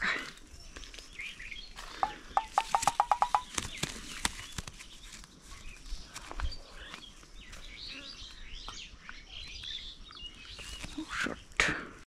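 Birds calling: a rapid run of about ten pulsed notes, rising slightly in pitch, about two seconds in, then scattered faint high chirps.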